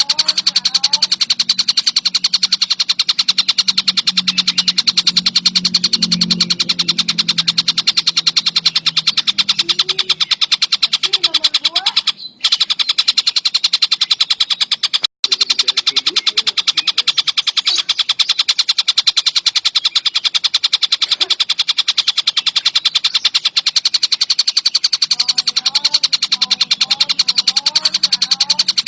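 Tengkek buto kingfisher singing a fast, unbroken chatter of high notes, with fainter, lower bird whistles behind it. The sound cuts out briefly about 12 and 15 seconds in.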